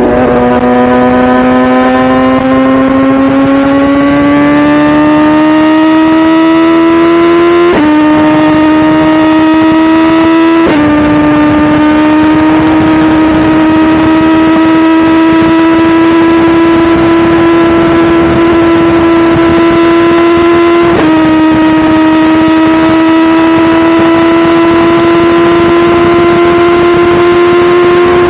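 BMW S1000RR inline-four engine under way, its pitch climbing steadily for the first eight seconds. The pitch then drops slightly and suddenly three times, about 8, 11 and 21 seconds in, at quick upshifts, and holds steady at speed with a slow rise between shifts.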